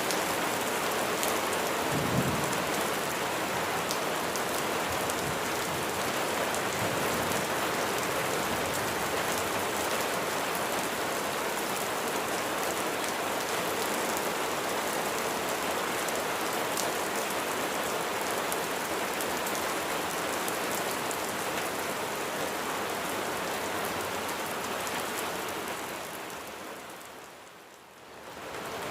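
Steady heavy rain falling, an even hiss, with a brief low thump about two seconds in. Near the end the rain fades down sharply and swells back up.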